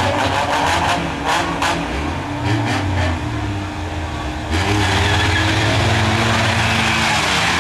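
Race car engines running and revving. About halfway through, the sound suddenly turns louder and hissier.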